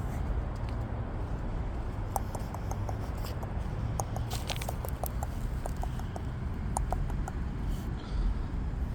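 Light, irregular clicking and pattering, several ticks a second for a few seconds in the middle, over a steady low rumble.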